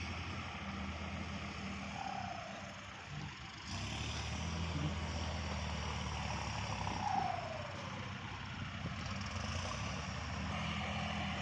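Kubota MU4902 tractor's diesel engine running steadily under load while disc ploughing, a little louder from about four seconds in.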